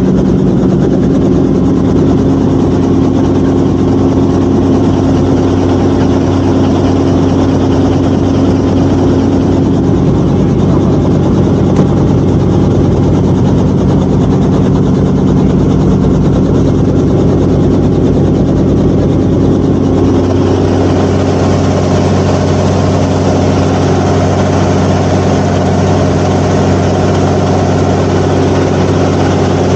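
Helicopter engine and rotor running, heard from inside the cabin as a loud, steady drone of several low tones. The sound grows a little brighter about twenty seconds in.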